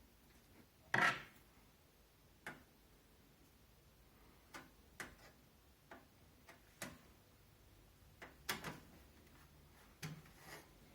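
Hands fitting a case fan into a computer case, plastic and metal parts knocking and clicking. About a dozen irregular clicks and knocks, the loudest about a second in.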